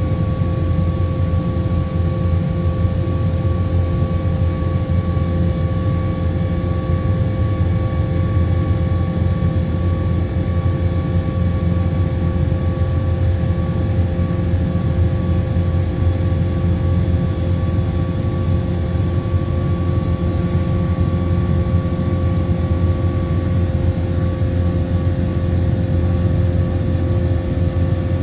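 Boeing 777-200ER jet engines and airflow in a loud, steady drone, with a low rumble and a constant hum that holds its pitch throughout.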